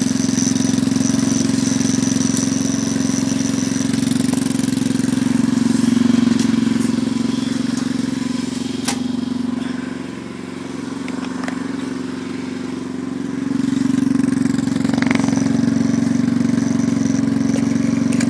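Yamaha Raptor 250 ATV's single-cylinder four-stroke engine idling steadily just after a jump-started cold start. The sound drops in level for a few seconds around the middle, then comes back up.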